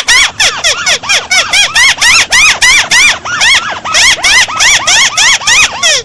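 Recorded crake call ('burung tikusan') played as a bird lure: a rapid, unbroken run of loud, squeaky notes, about five or six a second, each rising and then falling in pitch.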